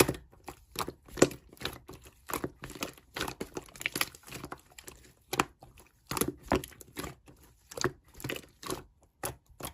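Slime being pressed and worked by hand, giving irregular crackling clicks and pops several times a second.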